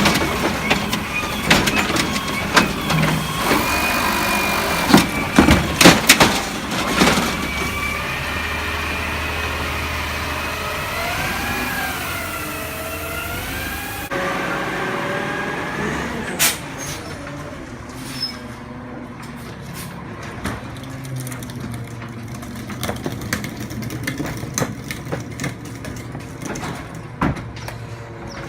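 Garbage truck at work: engine running, sharp metal clanks, and a wavering whine that rises and falls. About halfway through the sound changes abruptly to a quieter truck engine with scattered knocks and clicks.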